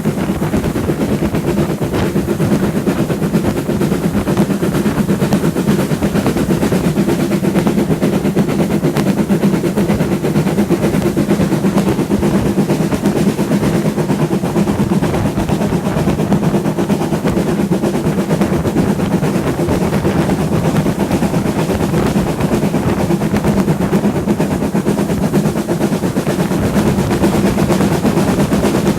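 Steam-hauled train in motion: a steady loud rumble with a constant low hum and a rapid, unbroken rhythmic beating.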